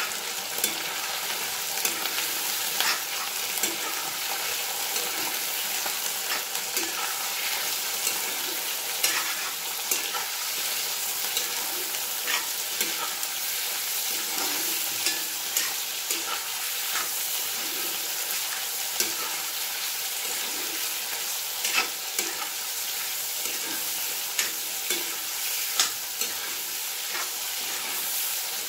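Chicken, onion and jackfruit pieces sizzling in hot oil in a cast-iron kadai, with a steady hiss, while a steel spoon stirs them, scraping and clinking against the pan at irregular moments.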